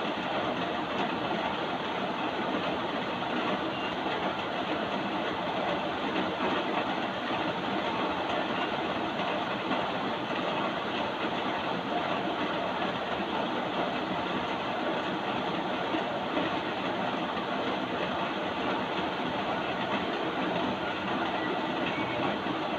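Steady rain, an even hiss without pauses or separate drops standing out.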